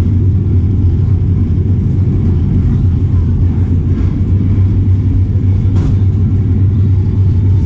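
Train riding along the track, heard from inside an open-sided carriage: a steady low rumble.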